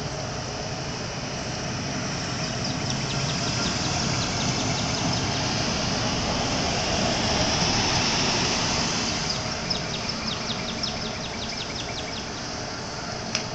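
A passing vehicle: a broad rushing noise that swells to a peak about halfway through and fades. Two runs of rapid high ticking sit over it, and one sharp tap comes near the end.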